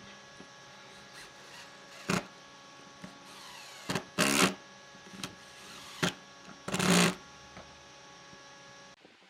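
Woodworking tool sounds on wood: two sharp knocks and two short half-second bursts of noisier working, over a steady mechanical hum that cuts off near the end.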